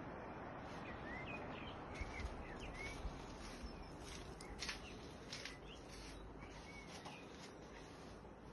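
Outdoor ambience: a steady rushing background noise with small birds chirping in short, high notes over most of the stretch, and a few soft clicks.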